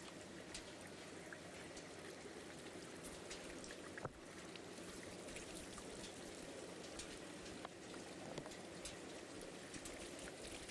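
Steady water hiss with many light, scattered patters and ticks, like drops striking a surface, and one sharper tick about four seconds in.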